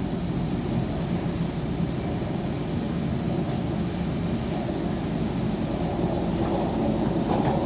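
MTR K-Train heard from inside a moving car: a steady rumble of wheels and running gear, with two faint high whines that drift slightly in pitch.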